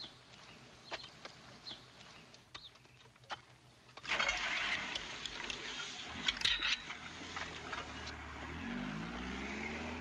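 A car engine running at low revs, its pitch rising near the end as the car pulls away. Before it there are a few faint clicks, then a steady hiss of outdoor background noise from about four seconds in.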